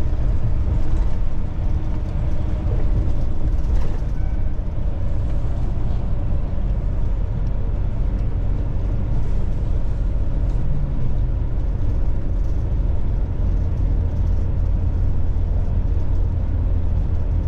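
Semi tractor-trailer's diesel engine running under way, with road noise from inside the cab: a steady low rumble.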